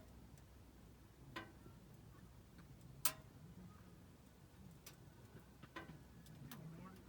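Burning firewood crackling: a handful of sharp, irregular pops, the loudest about three seconds in, over a faint low background.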